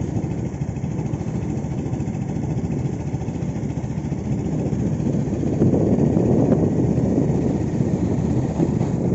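Steady engine and road noise of a moving motor vehicle, getting a little louder about halfway through.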